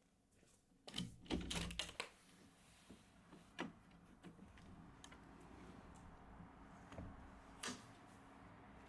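Light clicks and knocks of household objects being handled: a quick cluster of them about a second in, then single clicks a few seconds apart, over a soft steady hiss that comes up midway.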